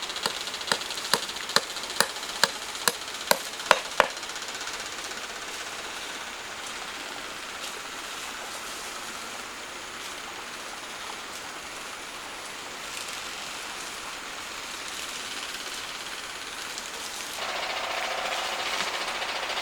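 A quick run of about ten sharp tool strikes, a little over two a second, that stops about four seconds in, typical of hand-tool work on wood. After that, only a steady hiss of background noise, which grows louder near the end.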